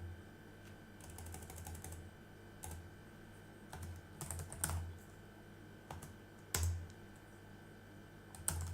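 Computer keyboard typing: a quick run of keystrokes about a second in, then scattered single keys, a few of them struck harder.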